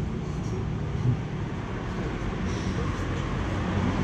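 Steady road and vehicle noise, a dull even rumble with no single engine standing out.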